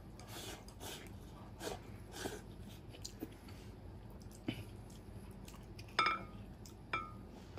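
Close mouth sounds of a man eating rice with braised beef from a bowl: chewing and wet smacking. Two sharp clinks with a short ring, about six and seven seconds in, from chopsticks against a porcelain bowl.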